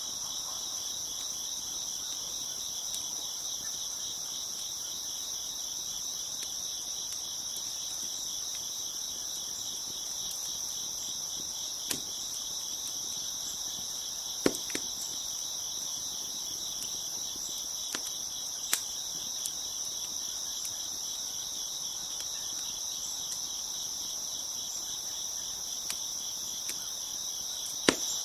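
A chorus of crickets chirping steadily in a fast, even trill. A few sharp, isolated pops from a crackling wood fire cut through it, the loudest about halfway through and near the end.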